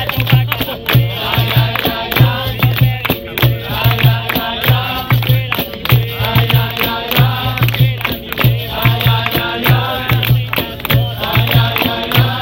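Live capoeira roda music: a group of voices singing together over a steady, repeating drum beat and sharp percussion clicks.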